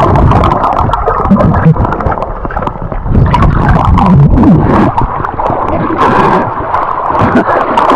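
River water gurgling and splashing close to the microphone, with a steady churning rush broken by many short splashes.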